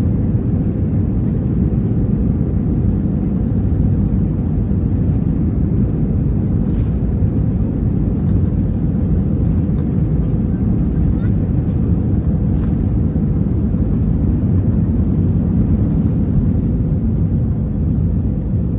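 Steady drone of an Airbus A321-200 cabin in flight: engine and airflow noise heard inside the cabin, even and unchanging.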